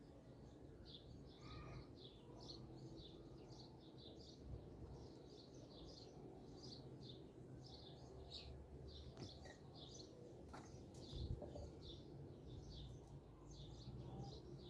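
Small birds chirping continuously and faintly, many short high chirps a second, over a low background rumble, with a soft thump about eleven seconds in.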